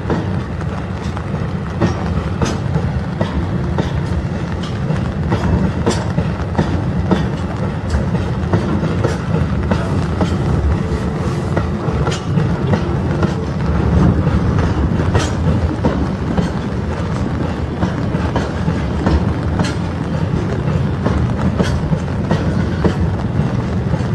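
Freight train hopper wagons rolling past, a steady low rumble with irregular clicks of steel wheels over rail joints.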